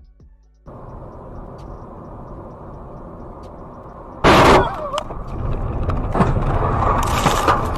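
Vehicle collision caught on dashcam audio: steady road and engine noise, then a loud crash impact about four seconds in, followed by loud continuous noise of the wreck.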